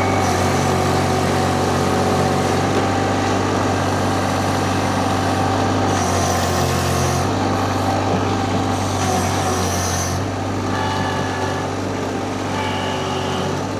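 Vmeng mini skid steer engine running steadily while it works its hydraulics to lift a pallet of concrete blocks of about 1,650 pounds. The engine note shifts slightly about six and again about ten seconds in.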